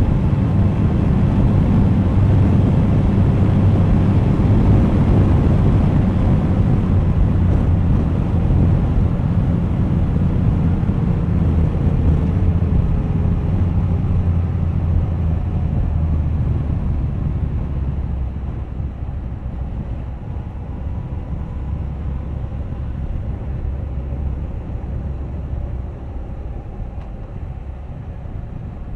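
Suzuki GSX1250FA's inline-four engine running with wind rushing past while riding, a steady rumble that grows gradually quieter over the second half.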